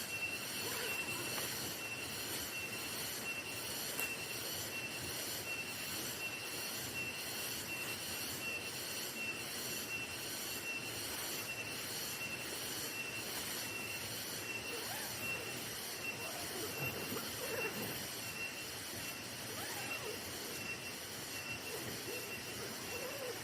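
Night insects calling in chorus: a shrill, steady trill with an even pulsing rhythm.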